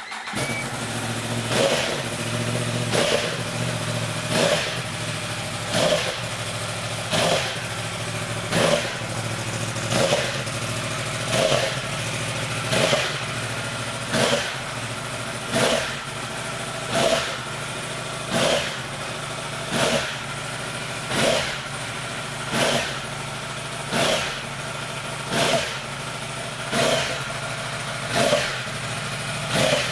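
R-1 engine catching right at the start and idling to warm up. A regular surge rises and falls about every one and a half seconds over the steady running.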